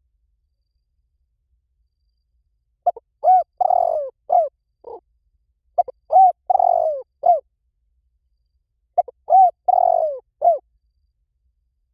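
Spotted dove cooing: three phrases of several short coos, repeating about every three seconds after a silent start. This is the kind of call played to lure spotted doves in.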